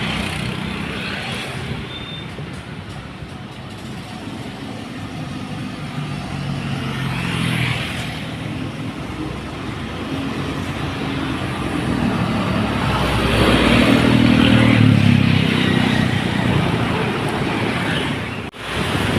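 Loaded dump truck's diesel engine pulling past, with tyre noise on a wet road. It grows louder and is loudest about two-thirds of the way through, then fades a little.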